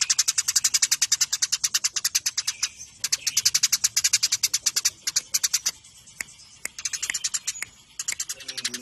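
Eurasian tree sparrows chirping in a fast, dense series of sharp chirps, about a dozen a second. This is the rapid fighting chatter used as a master song for training songbirds. The chirping thins out for a few seconds in the middle, then picks up again.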